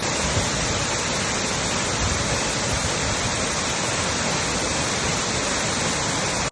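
Steady rushing of a large waterfall close by, a dense even wash of falling water, which cuts off suddenly at the end.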